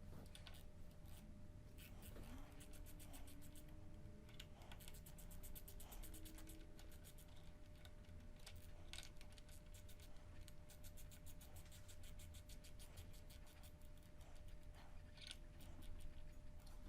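Near silence: faint scattered clicks and light scratching from small objects being handled, some in quick runs, over a low steady hum.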